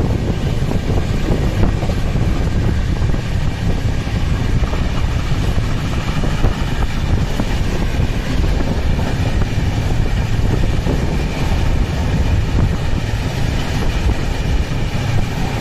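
Moving express train, a loud steady rumble of the carriages running along the track, with wind on the microphone.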